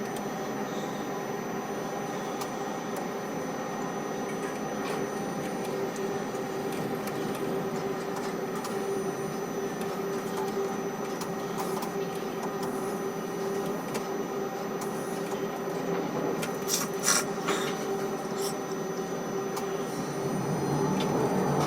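Steady hum of a ship-to-shore quay crane's machinery, holding a constant pitch, with a few short sharp clicks about seventeen seconds in.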